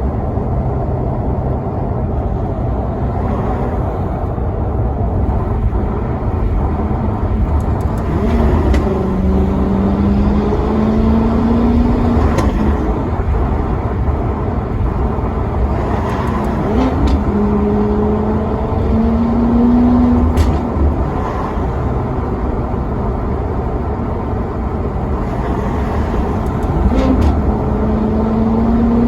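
Maserati Quattroporte Sport GT's V8 engine pulling under acceleration over a steady deep rumble. Its note climbs in three pulls: about nine seconds in, around seventeen seconds, and again near the end.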